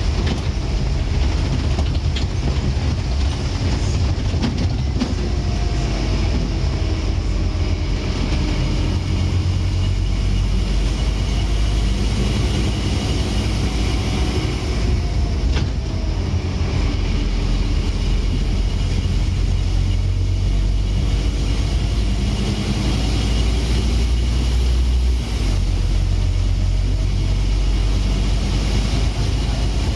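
Scania N230UD double-decker bus's five-cylinder diesel engine running as the bus drives along: a heavy low rumble that swells and eases as the revs change, with a faint whine rising and falling in the middle stretch.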